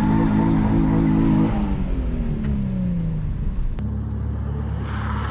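Nissan 350Z's V6 engine held at high revs, then falling in pitch as the revs drop. About four seconds in, it cuts suddenly to a lower, steady engine rumble.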